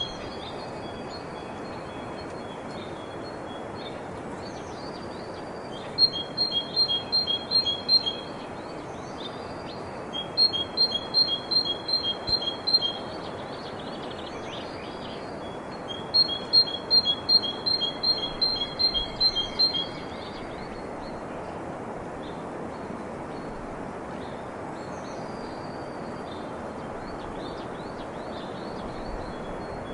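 A songbird singing three phrases of rapid, evenly repeated high notes, each phrase lasting two to four seconds, with pauses between them. Under it runs a steady background hiss, and a few faint chirps come in the second half.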